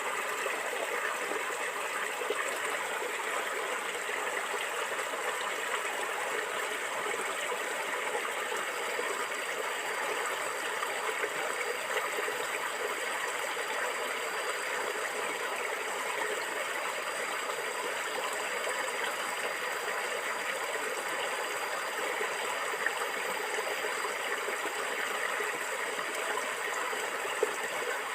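A stream of flowing water gurgling steadily, with no change in level.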